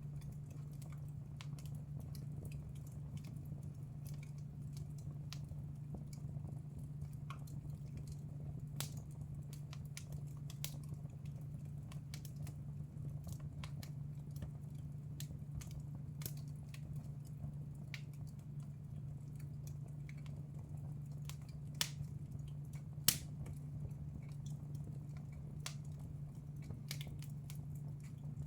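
Wood fire crackling in a fireplace: scattered small snaps and ticks, with two louder pops a little past the two-thirds mark. A steady low hum runs underneath.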